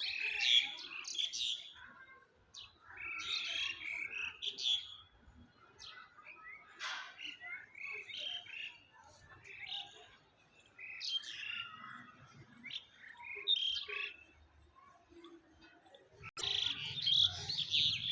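Birds chirping and twittering in short, busy bouts of high calls every second or two.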